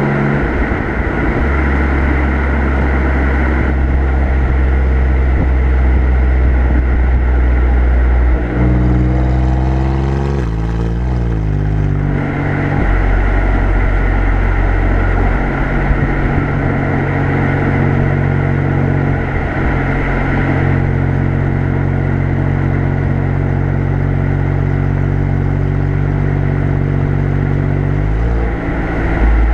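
Alfa Romeo Giulia Quadrifoglio's twin-turbo V6 exhaust heard from the rear bumper while cruising at easy throttle. The engine note steps up in pitch about eight seconds in, wavers and drops back a few seconds later as the revs change, and shifts again near the end.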